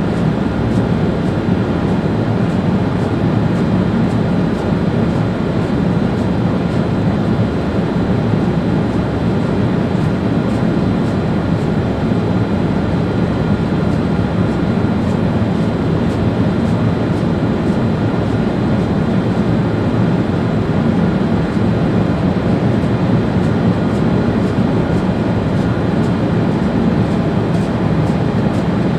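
ÖBB Railjet high-speed train running at speed, heard from the driver's cab: a steady rumble of wheels on rail and wind noise, with a faint steady whine above it.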